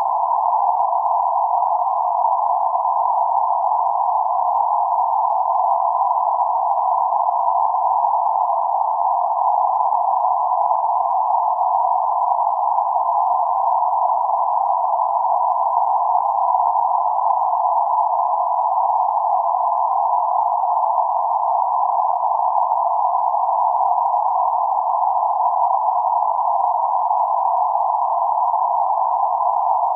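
Synthesized band-limited noise centred around 848 Hz, a steady, even hiss held in a narrow band with nothing above or below it and no change over time.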